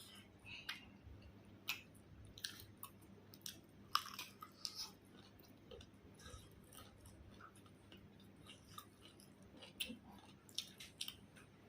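Close-up chewing and biting of food, with scattered short wet clicks and crunches, the sharpest about four seconds in, over a faint steady hum.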